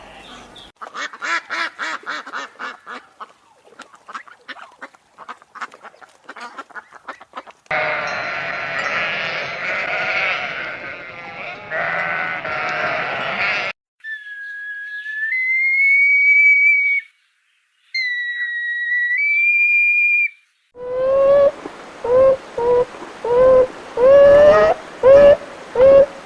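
Different animal calls one after another: a rapid clicking chatter first, then a few seconds of dense, noisy calling, then two long whistled notes, then a string of short, rising-and-falling calls repeated about twice a second.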